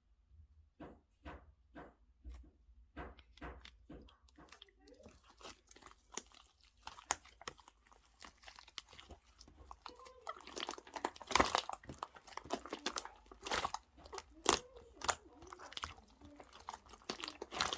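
Slime being pressed and squished by hand, giving sticky clicks and pops: spaced clicks at first, then denser crackling with louder pops from about halfway.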